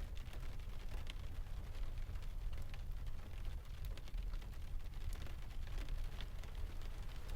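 Layered rain-and-sea ambience: a steady deep rumble under soft rain, with many small scattered ticks.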